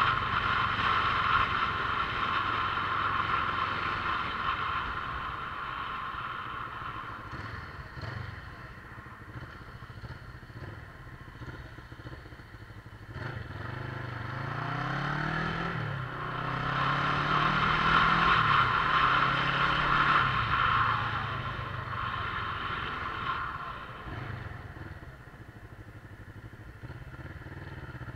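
Motorcycle engine running while riding, over a steady hiss. About halfway through, the engine pitch climbs and drops twice as it accelerates.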